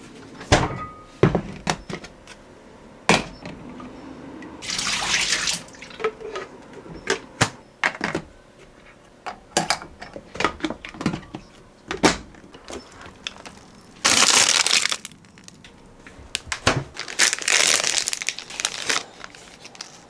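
Water running in three short bursts of hissing, with many sharp clicks and knocks of handled objects in between, as at a sink.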